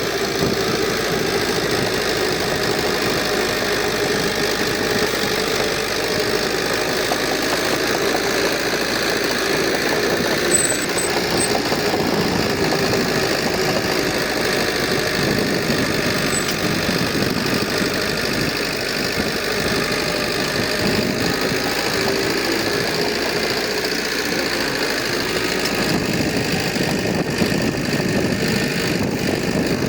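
Heavy construction machine's diesel engine running steadily, a constant rumbling drone with no change in pace.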